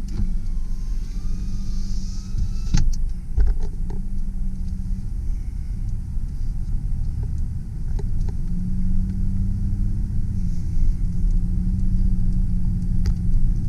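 A Mazda B4000 pickup's 4.0-litre V6 engine running steadily inside the cab as the truck drives off after the shift from reverse into drive. A few sharp clicks and knocks come about three seconds in.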